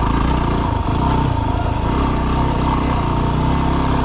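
Yamaha WR250R dual-sport motorcycle's single-cylinder four-stroke engine running steadily at low revs as the bike rides slowly over rocky trail.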